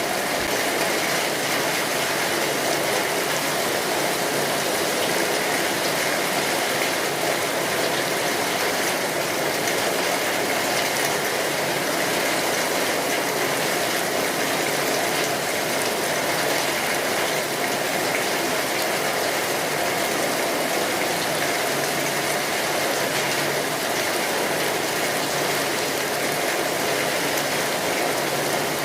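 Steady rainfall, an even dense patter of many drops with no single strikes standing out.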